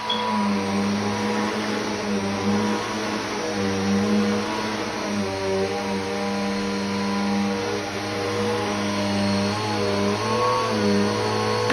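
Vacuum cleaner running steadily, its motor hum shifting in pitch now and then, most noticeably near the end.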